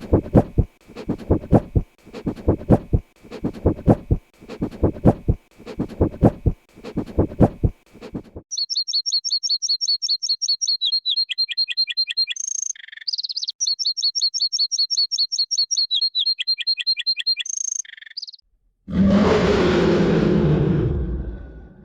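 A succession of different animal sounds: first a run of evenly repeated low calls, about one a second, over a steady high tone; then a songbird singing fast, high, repeated trilling phrases twice; then, near the end, a loud rough noise lasting a couple of seconds.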